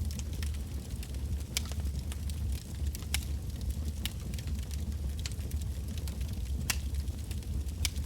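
Wood bonfire burning, with a steady low rumble and irregular sharp crackles and pops of burning logs; a few louder snaps stand out.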